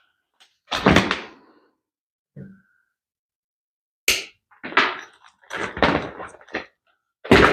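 Handling noises from cutting and pulling out old motorcycle wiring. There is a thunk about a second in, then a run of short, irregular knocks and rustles over the last three seconds or so.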